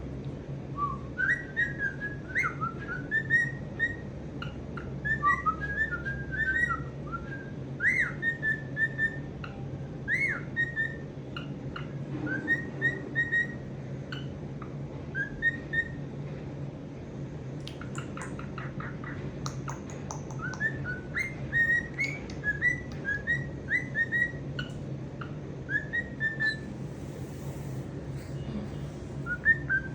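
Pet cockatiel whistling its song: short chirpy notes that glide up and down, in phrases with a pause around the middle. A quick run of clicks follows the pause, and a steady low hum sits underneath.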